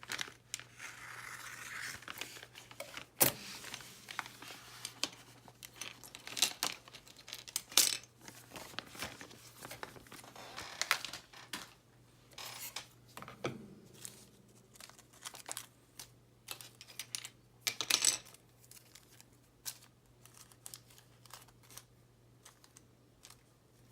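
Small plastic parts bags being cut and torn open and crinkled, with irregular sharp clicks and taps of small parts and tools on a tabletop, over a faint steady low hum.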